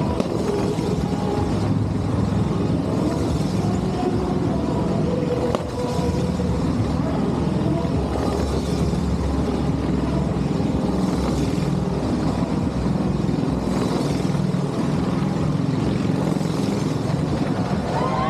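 Motorcycle engine running steadily at speed as it circles a Wall of Death.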